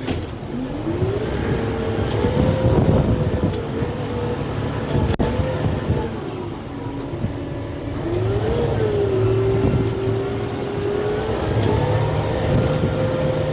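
Kubota M6-141 tractor's turbo diesel engine running under load as the grapple works under a tree, its pitch rising and dipping several times and holding higher near the end. A single sharp click about five seconds in.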